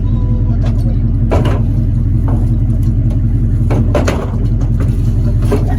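V8 engine of a V8-swapped 1986 Chevy S10 pickup running steadily with a low, lumpy pulse, with a few sharp knocks and clatters over it.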